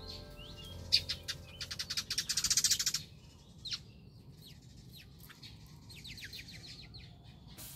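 Small birds chirping, with a loud fast trill from about one and a half to three seconds in, then quieter scattered chirps.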